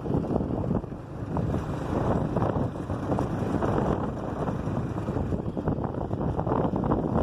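Wind buffeting the microphone with the rumble of a moving vehicle on an asphalt road, a rough, uneven noise.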